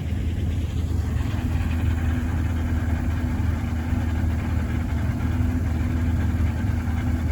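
Race car engine idling steadily, a low even drone with no revving.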